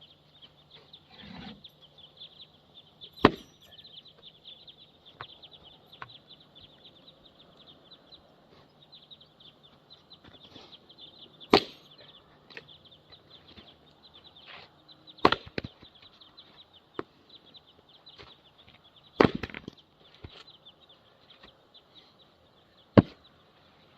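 Firewood rounds being split by hand: five heavy chopping blows, each a sharp crack of the wood, spaced a few seconds apart with small knocks of pieces falling in between.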